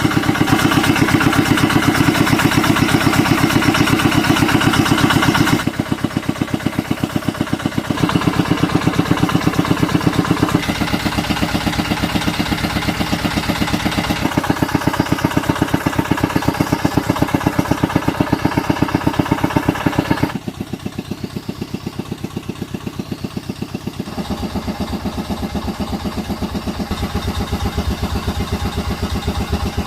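A motor running with a fast, even pulse. Its loudness and tone change abruptly several times.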